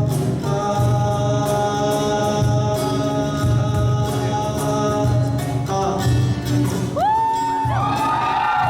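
Live rock band playing with singing over a steady beat, with held notes throughout. About seven seconds in, the audience starts whooping and cheering.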